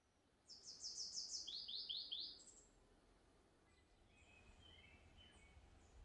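A small songbird sings one quick phrase of high down-slurred notes: a run of about five, then about four lower ones. Fainter, shorter chirps follow a couple of seconds later.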